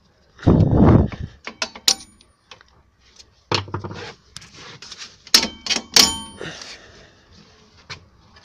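Metal tools and brake parts clanking and clinking, several strikes leaving a short metallic ring, after a loud scraping, rustling burst about half a second in.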